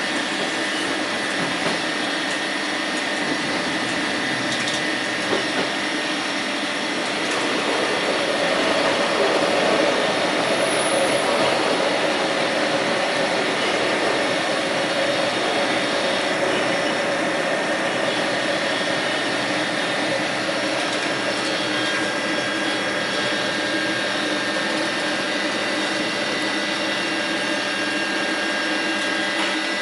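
Train running, with a steady rumble and several held whining tones throughout. A deeper hum swells about eight seconds in and eases off a few seconds later.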